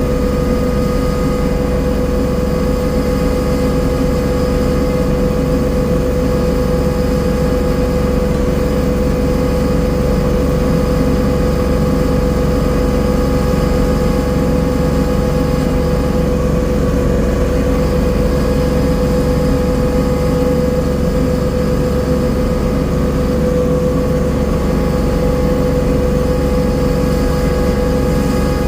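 Engine of a garden tiller running steadily at an even speed while tilling the garden soil.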